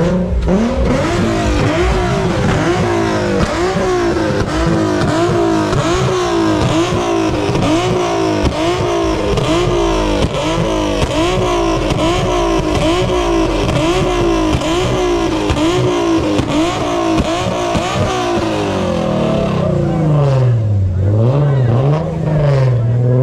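Car engine revved up and down over and over in quick blips, about one and a half a second, then in slower, deeper revs near the end.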